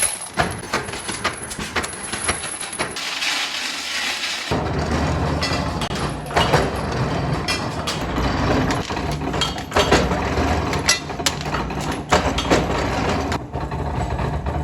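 Metalworking workshop sounds: repeated sharp metal knocks and clanks. About four and a half seconds in, a machine's steady low hum starts and runs under them.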